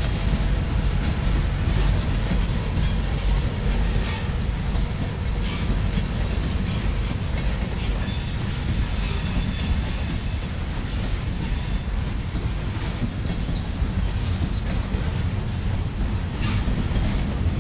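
Union Pacific intermodal freight cars rolling past with a steady heavy rumble of steel wheels on rail. About eight seconds in, a high squeal from the wheels rises over it for a few seconds.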